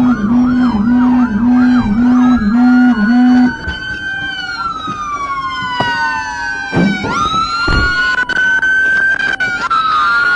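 Police sirens: a fast yelp cycling about three times a second with a deep pulsing tone beneath it, switching about three and a half seconds in to several slow wailing sirens that overlap and rise and fall at different pitches.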